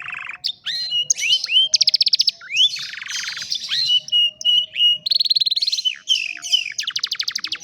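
Domestic canary singing: several fast trills of rapidly repeated notes, some high and some lower, between sharp downward-sweeping whistles and short repeated chirps.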